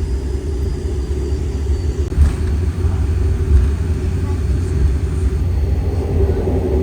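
Airliner cabin noise: the engines' steady low drone heard from inside the passenger cabin.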